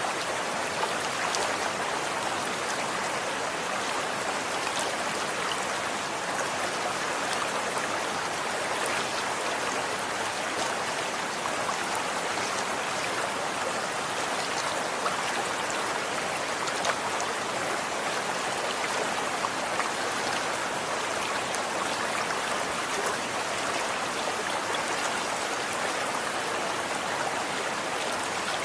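Running water flowing steadily: an even, unbroken hiss of moving water with small splashes scattered through it.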